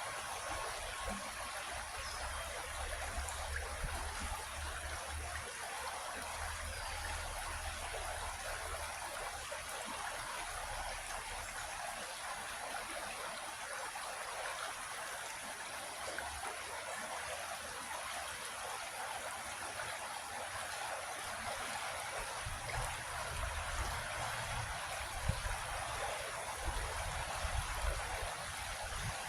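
Small creek flowing steadily, a continuous rushing and trickling of water, with occasional low rumbles near the start and in the last several seconds.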